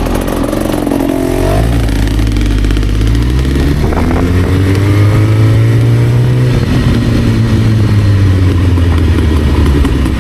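Motorcycle engines running, with the revs climbing briefly near the start, then rising again from about three seconds in and dropping back a few seconds later.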